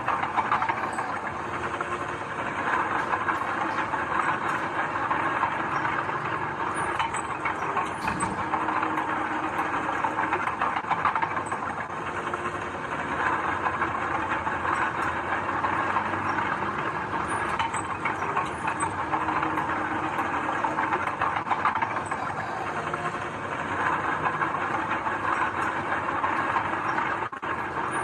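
Heavy earthmoving machinery running steadily: a diesel engine's continuous noise with a faint steady hum and scattered light clatter.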